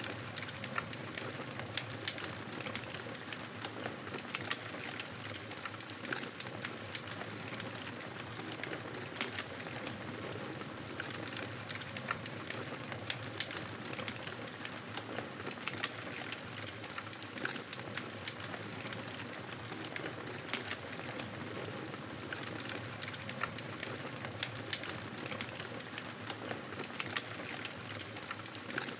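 Wood fire crackling in a fireplace: a steady hiss with many small, sharp pops and snaps scattered irregularly throughout.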